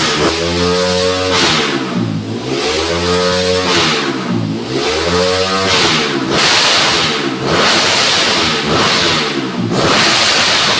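Honda CRF 155 grass-track race bike's single-cylinder four-stroke engine revved hard and held high, the revs dropping and climbing again about two and four and a half seconds in, then running on rougher and noisier.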